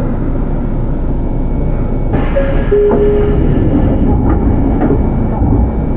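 Sotetsu 8000 series electric train running, heard from on board: a steady rumble of wheels on rail. About two seconds in a hiss joins it for a couple of seconds, with brief steady tones.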